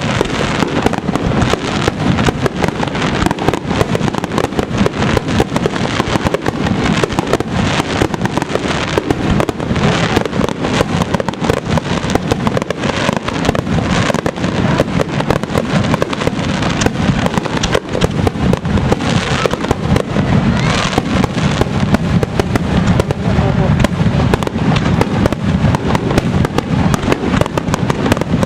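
Fireworks display: a dense, unbroken barrage of many overlapping bangs and crackles with no pause.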